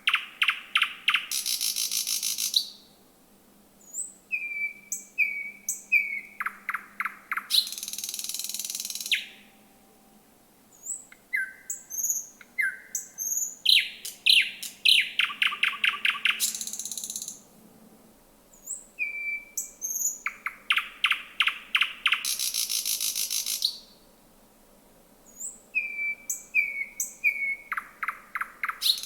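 Male thrush nightingale singing: about five loud phrases, each opening with short high whistled notes and running into fast series of hard clicking notes that end in a dry rattle, with short pauses between phrases.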